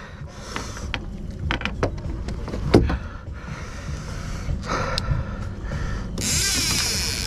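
Knocks, clicks and rustling of handling gear and a just-netted striped bass aboard a small fishing boat, with one louder knock near the middle and a brief burst of hiss near the end.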